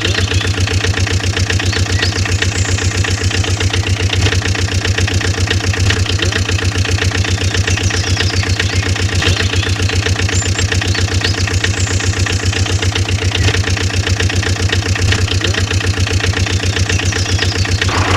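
A small engine running steadily with a fast, even chugging beat, the engine of a miniature model tractor.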